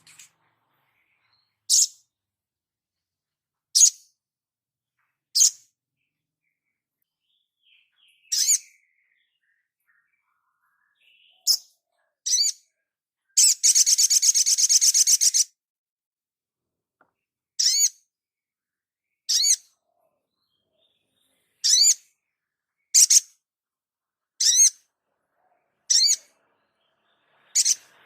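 Songbird calls from a masteran (song-training) recording: short, sharp, high-pitched notes repeated every one to two seconds, broken about halfway through by a fast trill lasting about two seconds.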